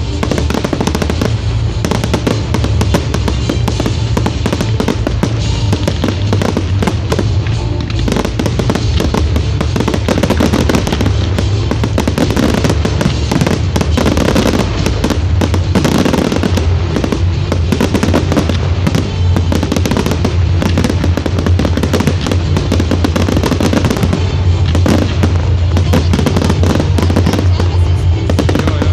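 Fireworks bursting and crackling in rapid, continuous volleys over loud music with a heavy bass.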